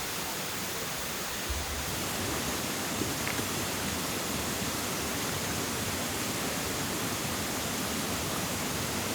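A steady, even rushing noise with no rhythm or pitch.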